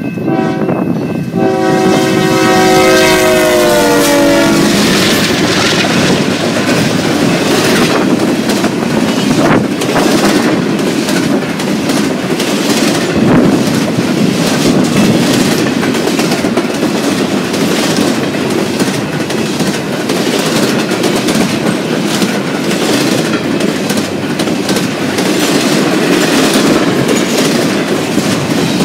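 Fast BNSF double-stack container train passing behind GE ES44DC locomotives. The horn chord sounds for the first four seconds or so and drops in pitch as the engines go by. Then comes the loud, steady noise of the cars rolling past, with wheels clicking over the rail joints.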